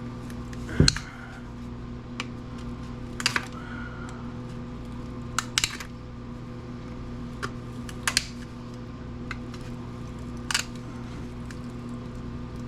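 Scattered clicks and taps of hand tools against the planer's electric motor while its copper winding is being worked out. The sharpest knock comes about a second in, and a steady low hum runs underneath.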